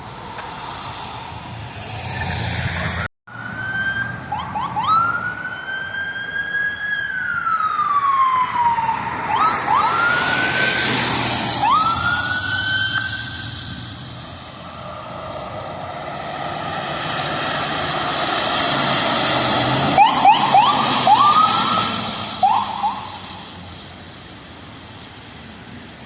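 Emergency vehicle siren sounding on a response. It alternates long rising-and-falling wails with clusters of quick rising whoops, grows louder to a peak about twenty seconds in, then fades.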